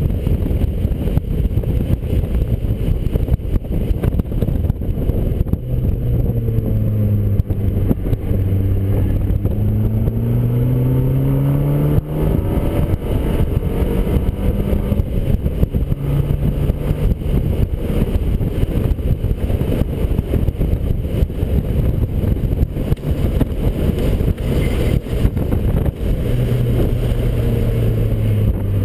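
Fiat 500 Abarth's turbocharged 1.4-litre four-cylinder engine, heard from inside the cabin during hard track driving, under heavy wind and road rumble. About a quarter of the way in the engine note dips, then climbs steadily for several seconds as the car accelerates, and breaks off; it rises again near the end.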